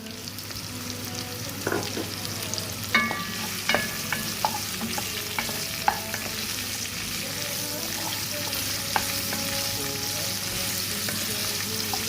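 Onion, garlic and green chilli frying in hot olive oil, sizzling steadily, with a spoon knocking against the pan a dozen or so times as they are stirred.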